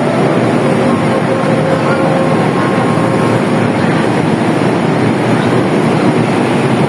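Train running past close by: a loud, steady rumble of wheels on rails and engine.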